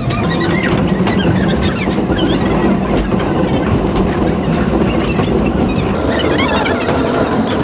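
Old train running on the rails: a steady, loud rumble of wheels and carriages with scattered clicks and rattles.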